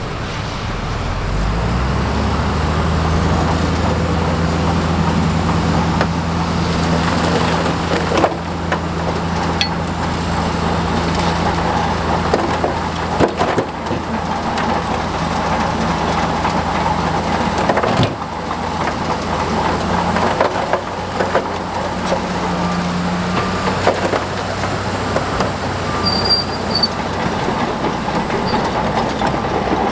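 Heavy diesel engine of a crawler bulldozer revving up over the first couple of seconds, then running under steady load. Clanking from the machine is heard throughout, with sharper metal knocks several times.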